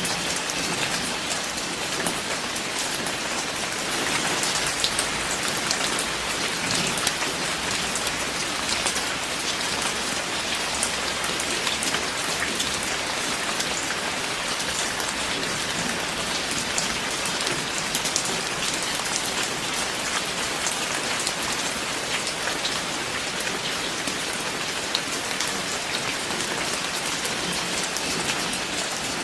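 Steady, heavy rain falling, with many individual drops striking close by over a dense, even hiss; it swells slightly about four seconds in.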